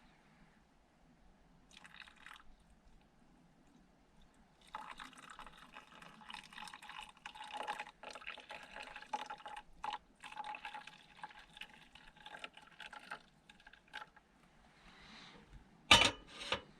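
Liquid being poured into a cup, in broken pours with short pauses over about nine seconds, then two sharp knocks near the end.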